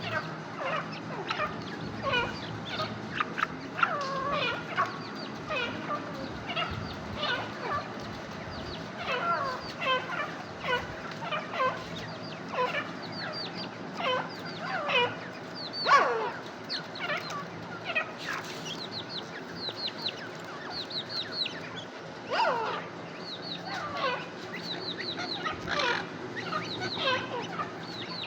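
Teetar (partridges) calling: many short, mostly falling calls overlapping one another without a break, from several birds at once.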